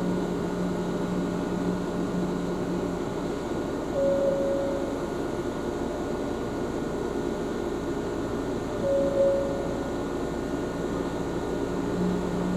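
Ohmi Railway train running, heard from inside the car as a steady rumble of wheels and running gear. A low hum fades out about three seconds in and returns near the end, and a brief higher tone comes back every five seconds or so.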